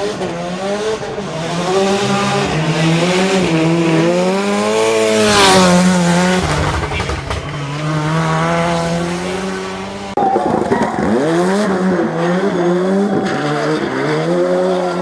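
Ford Sierra RS Cosworth rally car's turbocharged four-cylinder engine revving hard, its pitch repeatedly climbing and dropping through gear changes, loudest about five seconds in. The sound jumps abruptly about ten seconds in, then goes on revving.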